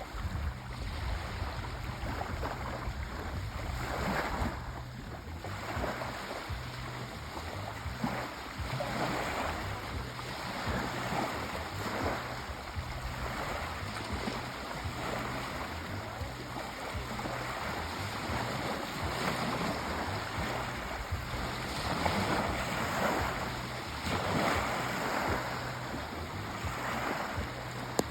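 Sea waves washing and breaking on the shore: a continuous rush of surf that swells and eases every few seconds.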